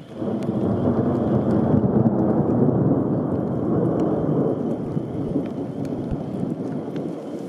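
Thunder from a nearby lightning strike: a loud rumble that starts abruptly, swells over the first few seconds, then slowly dies away.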